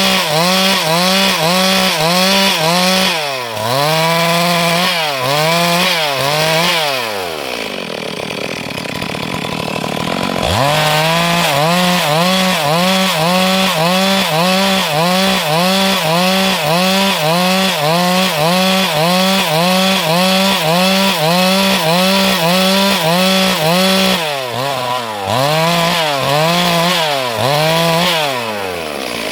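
Stihl MS 382 two-stroke chainsaw cutting wood at high revs, its pitch dipping and recovering in an even rhythm about twice a second. About seven seconds in the revs fall away to a low idle, then it throttles up sharply about three seconds later and cuts on, with the revs dropping again near the end.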